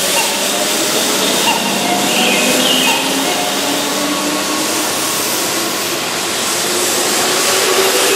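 Keihan 2200-series electric commuter train pulling out along the platform and picking up speed. Its wheels and running gear make a steady loud noise, and a faint motor hum climbs in pitch.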